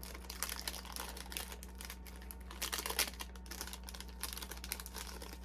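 Irregular light clicks, taps and rustles of the One Chip Challenge box and foil packet being handled, over the steady low hum of a fan.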